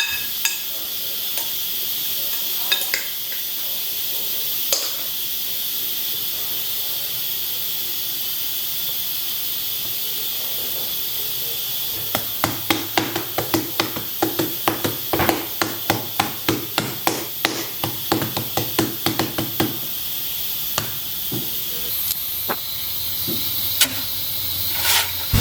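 Steady hiss of steam from a pressure cooker cooking soup. From about twelve to twenty seconds in, a quick run of knocks, several a second, plays over it.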